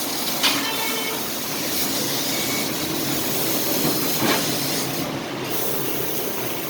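Fiber laser cutting machine running on sheet metal, giving off a steady hiss. There is a sharp knock with a brief ring about half a second in and a smaller knock around four seconds.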